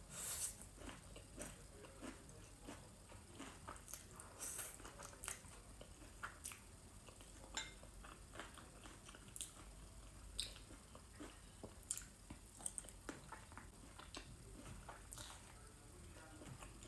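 A person chewing and biting spicy noodles and octopus close to the microphone, with irregular short clicks of mouth and utensil sounds.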